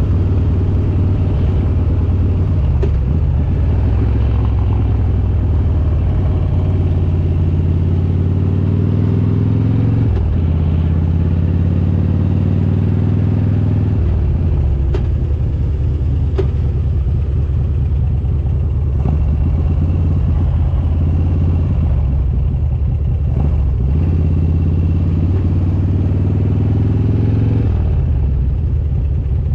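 Harley-Davidson Road King's V-twin, built to S&S 95 cubic inches with Super Stock heads, running under way. The engine note rises as it pulls through a gear, drops at a shift about ten seconds in, and rises again until another shift about four seconds later. It then holds a steady cruising note and eases off near the end.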